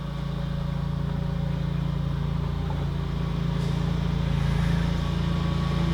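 Engine idling: a steady low hum that fades in and grows slowly louder.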